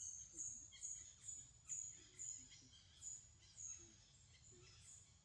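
A small bird calling: a short, high-pitched chirp repeated about twice a second, each note dropping quickly in pitch.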